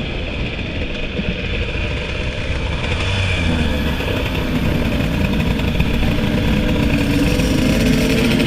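Two-stroke motorcycle engine running under way, with wind and road noise. From about three seconds in it pulls harder, rising in pitch and getting louder.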